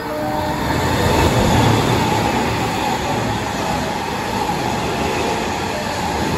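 Electric train passing through the station at speed without stopping: steady wheel-on-rail running noise that builds over the first second and a half, then holds.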